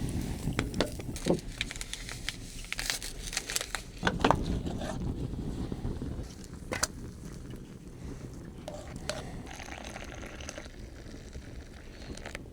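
Plastic packaging crinkling and crackling as it is handled and opened, with many sharp crackles over the first few seconds, then quieter rustling.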